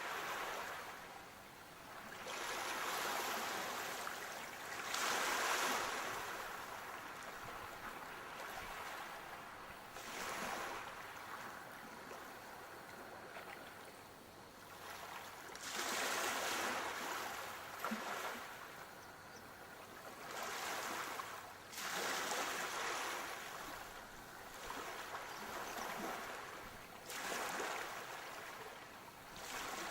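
Sea waves breaking and washing up the shore, a rushing surge of surf swelling and fading every few seconds.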